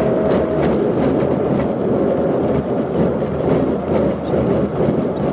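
Steady engine and road noise from a moving road vehicle, heard from inside the cabin.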